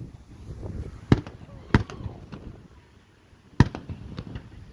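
Aerial firework shells bursting: three sharp bangs, about one second, just under two seconds and three and a half seconds in, with fainter cracks between them.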